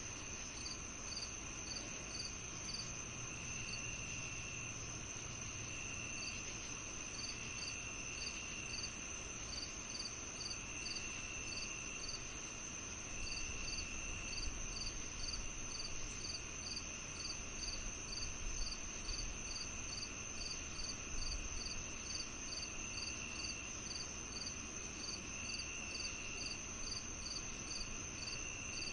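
A chorus of crickets on a summer evening: a steady high-pitched trill with a regular chirping about twice a second, and a lower trill that starts and stops every few seconds.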